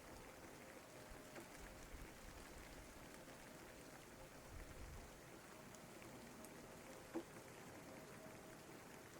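Faint, steady rain falling, a soft hiss scattered with small drop ticks, and one sharper drop or tap about seven seconds in.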